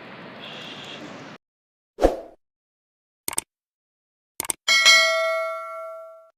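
Steady background hiss that cuts off abruptly about a second in, followed by a thump and a few short clicks. About five seconds in, a single bright bell-like ding rings out and fades away over about a second and a half.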